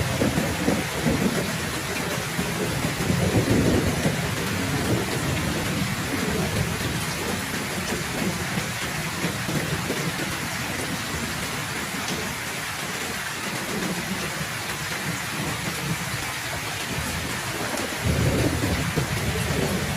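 Heavy rain falling steadily, with low rolling thunder. The rumble is strong for the first few seconds, dies away, and builds again near the end.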